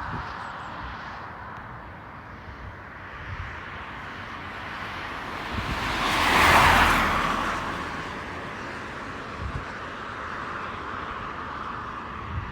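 A vehicle passing close by, swelling to a peak about six and a half seconds in and then fading, over a steady, distant rushing hum.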